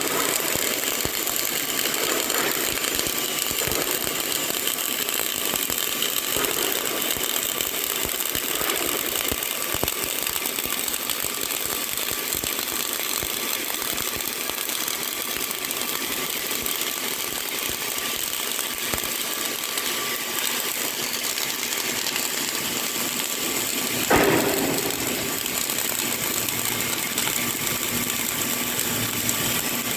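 CO2 (MIG/MAG) welding arc crackling and hissing steadily as wire feeds into the weld, with one brief louder crack late on.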